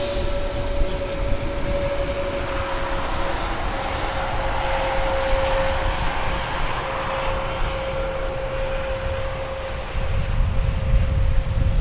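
An airliner's engines running as the aircraft passes, with a steady drone and a faint high whine that slowly falls in pitch. Wind buffets the microphone near the end.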